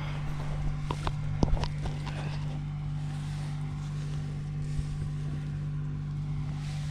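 A steady low hum, with a few sharp clicks and knocks between one and two seconds in.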